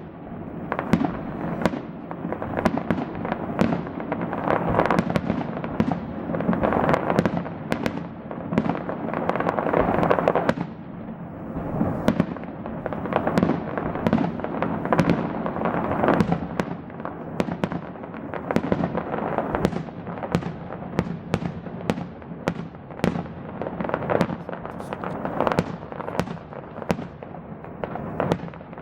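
Fireworks display: shells bursting in a rapid, continuous series of bangs, several a second, over dense crackling.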